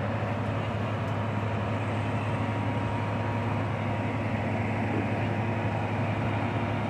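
Mount Washington Cog Railway locomotive running steadily as it moves its passenger coach slowly along the track: an even, low engine hum with a faint steady whine above it.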